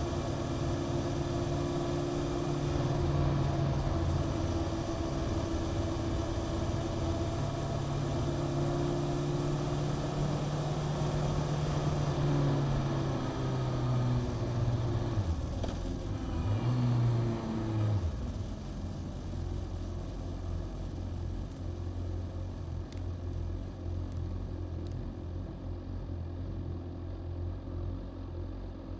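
Honda CBR600F's inline-four engine with an aftermarket Mivv exhaust running at low revs, rising briefly and falling, then settling to a steady idle about two-thirds of the way through.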